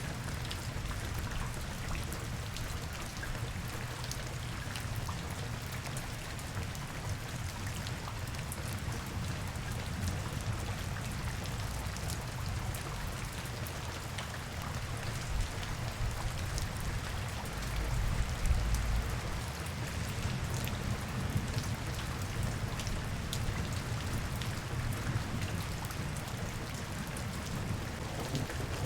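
Steady rain with a close patter of individual drops on hard surfaces, over a low rumble that swells briefly about two-thirds of the way through.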